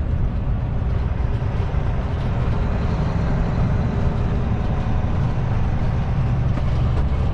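Kenworth T660 semi truck's diesel engine pulling steadily under way, heard from inside the cab with road noise.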